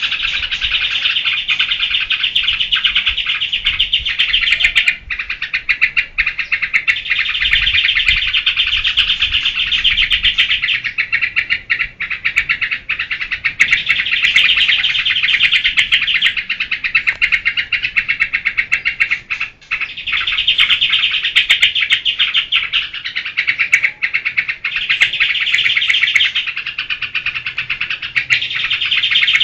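Yellow-vented bulbul (trucukan) singing its energetic, continuous 'geberan' song: dense, rapid chattering phrases a few seconds long, each followed by a brief break.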